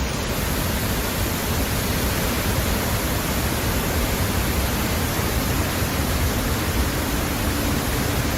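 A loud, steady rushing noise with no tone or rhythm, of the kind made by storm wind, torrential rain or rushing water. It stops abruptly right at the end.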